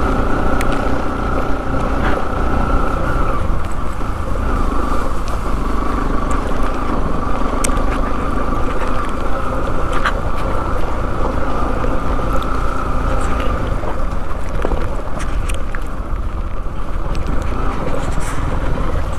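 Motorcycle engine running steadily under way, with wind noise rumbling on the microphone and a few scattered sharp clicks.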